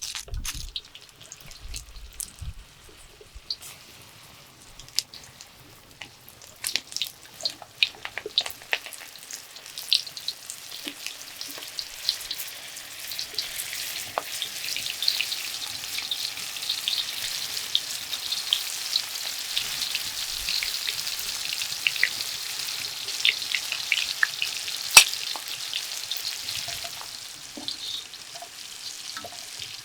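Food frying in hot oil: a steady sizzle, strongest in the second half, with constant crackling and spitting pops, one of them loud about 25 seconds in.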